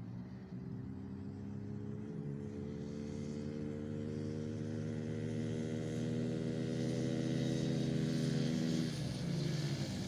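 Small engine running steadily and growing louder as it approaches, its pitch rising slightly. About nine seconds in the note drops off as it goes by.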